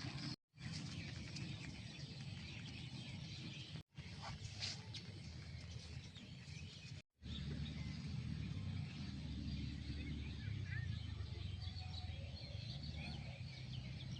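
Rural outdoor ambience: a steady low rumble with faint bird chirps scattered through it. The sound drops out completely three times, briefly, where the recording is cut.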